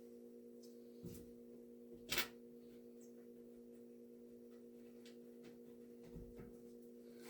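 A few faint clicks and a short knock, the loudest about two seconds in, over a steady low hum.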